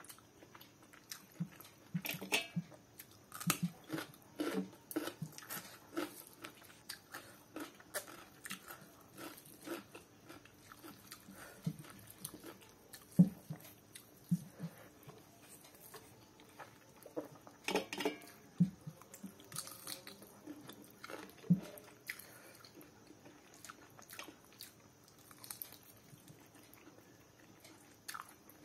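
A person eating rice and chicken curry by hand: chewing with irregular wet mouth clicks and a few louder smacks. Fingers mix and squeeze the rice in the curry on the plate.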